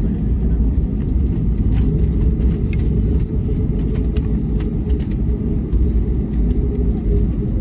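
Steady deep rumble inside the cabin of an Airbus A321 rolling on the ground after touchdown, with scattered light clicks and rattles.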